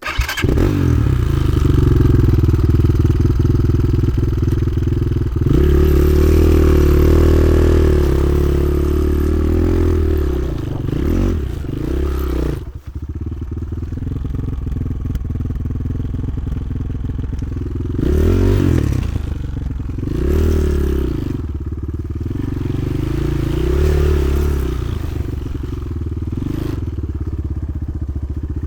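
Motoland XR 300 Lite enduro motorcycle engine running under way, its revs rising and falling repeatedly as it is ridden, with a brief dip about thirteen seconds in.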